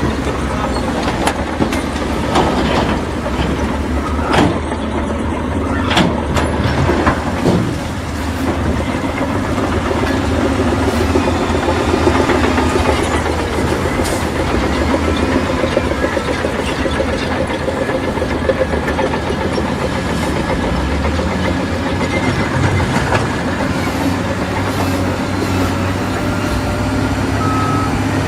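Heavy diesel earthmoving machinery running steadily, with metallic clanks and rattling in the first few seconds. A reversing alarm starts beeping right at the end.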